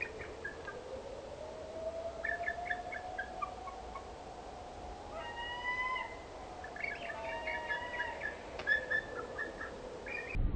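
Birds calling: clusters of short chirps and whistled notes, over one long low whistle-like tone that slowly rises and then falls.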